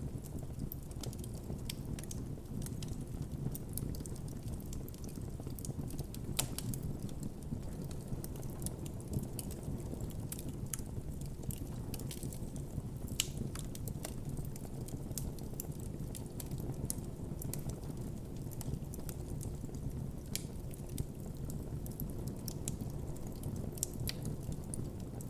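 Campfire burning with a steady low rumble of flames and irregular crackles and pops from the burning wood, a few sharper pops standing out now and then.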